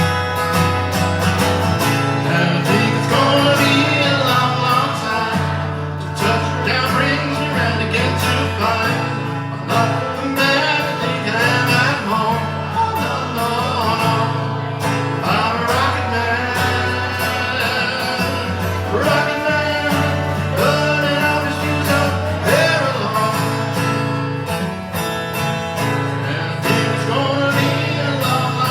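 Live music: an acoustic guitar played with a singing voice over it.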